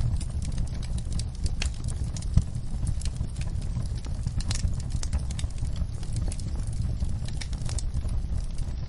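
Wood fire crackling in a fireplace: irregular sharp pops and clicks, the loudest about two and a half seconds in, over a steady low rumble, with rain falling on a window.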